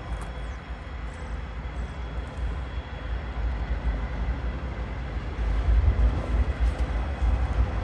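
Norfolk Southern diesel freight train running slowly along the track, a low engine rumble that grows louder about five and a half seconds in.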